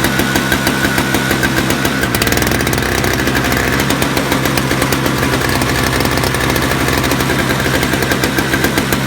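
7 hp Toro snowblower's single-cylinder engine running just after a cold start, with a regular pulsing firing beat. About two seconds in, the beat quickens and evens out.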